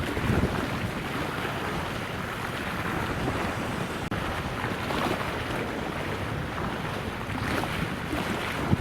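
Wind buffeting the microphone outdoors: a steady rushing noise with gusty low rumbles, strongest near the start and again near the end.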